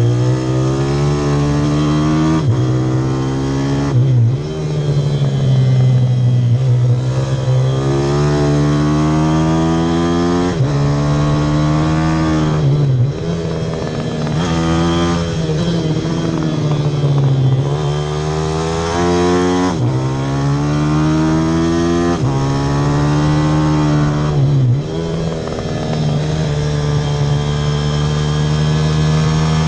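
Pitbike engine being ridden hard, its pitch repeatedly climbing for two to three seconds and then dropping back before climbing again.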